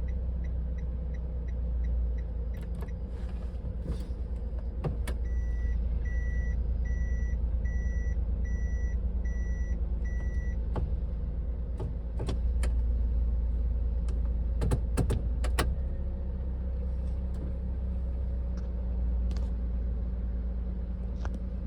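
Daihatsu Tanto Custom's 660 cc three-cylinder engine idling steadily. A few seconds in, an in-car warning chime beeps seven times, and there are scattered sharp clicks.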